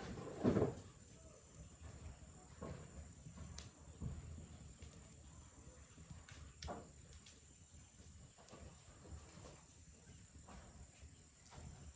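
A faint, steady, high-pitched insect chirr, with scattered light knocks and rustles. One louder, short sound comes about half a second in.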